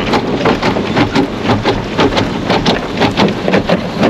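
Automatic car wash pelting the car's body and glass, heard from inside the cabin: a loud, dense, irregular drumming of many quick hits over a steady rush.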